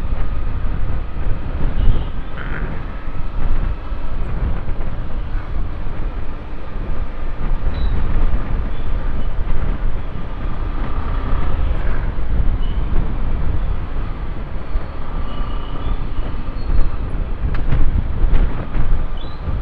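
Motorcycle riding at road speed: heavy wind buffeting on the microphone in a deep, steady rumble, over the bike's engine and tyre noise.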